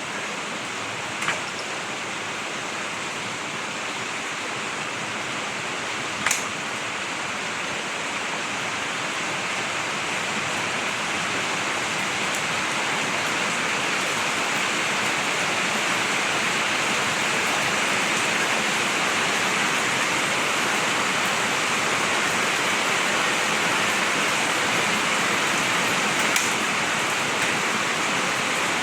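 Heavy rain falling steadily, a continuous hiss that gets a little heavier over the first half, with a few sharp drip or tap sounds standing out.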